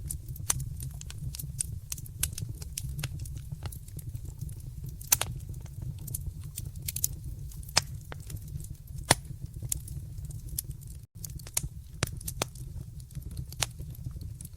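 Wood fire crackling in a fireplace: frequent sharp pops and snaps, a few of them louder, over a steady low rumble of the flames. There is a split-second gap in the sound about eleven seconds in.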